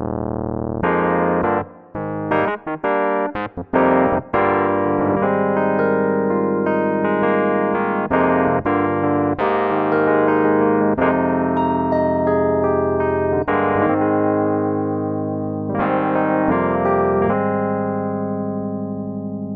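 Arturia Stage-73 V2 software electric piano, an emulation of a Rhodes Stage 73, playing chords: a run of short detached chords about two seconds in, then held chords that ring and slowly fade.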